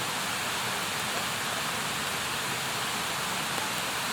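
Campfire burning with a steady, even hissing rush and no distinct crackles.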